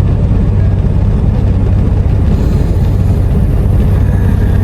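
Steady low rumble of a semi truck's diesel engine, with a constant hum underneath.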